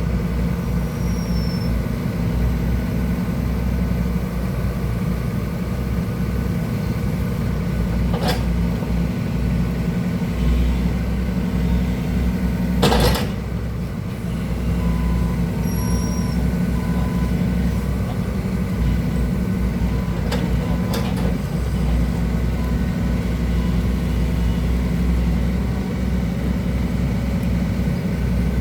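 Hydraulic excavator's diesel engine running steadily with a deep rumble, with a few clicks and one short, louder burst of noise about thirteen seconds in.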